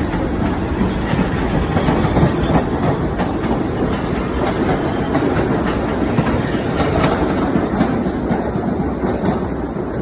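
New York City subway train running through the station, its wheels clattering over the rails; the sound eases off a little near the end.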